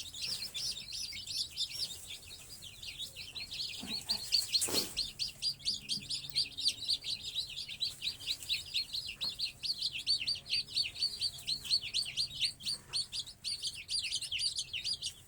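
A brood of baby chicks peeping continuously, many quick high-pitched chirps overlapping, several a second. A single short knock about five seconds in.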